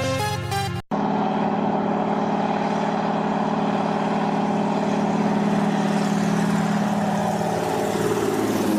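Electronic music cuts off about a second in, followed by a steady engine drone with a hiss, its tone dipping slightly near the end.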